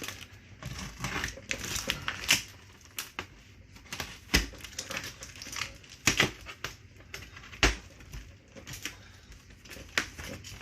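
Cardboard shipping box being opened by hand: irregular crinkling, rustling and clicking of cardboard and packing, with a few sharp knocks.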